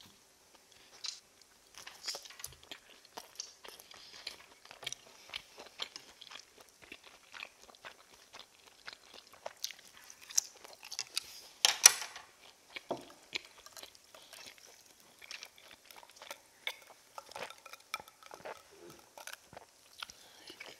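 Close-miked chewing of chewy, springy fried fish cakes (eomuk), with soft wet mouth sounds and many small sharp clicks of chopsticks against the dishes. A louder clatter comes about twelve seconds in.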